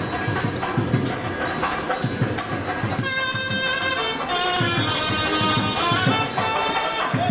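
Traditional temple music: drums and small cymbals keep a steady beat of about two to three strokes a second, joined about three seconds in by a loud wind instrument playing a wavering, ornamented melody.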